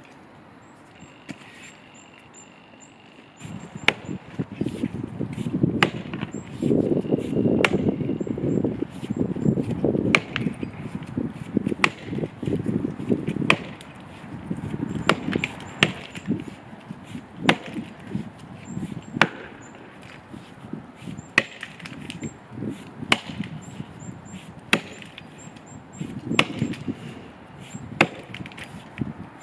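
Axe chopping into the trunk of a dead standing tree, sharp strikes starting about three seconds in and coming about every one and a half to two seconds.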